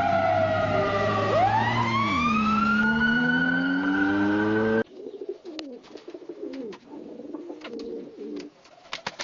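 Two AI-generated sound samples from the AudioGen text-to-audio model. First, a siren glides over a steady engine hum and cuts off abruptly about five seconds in. Then pigeons cooing with scattered sharp clicks.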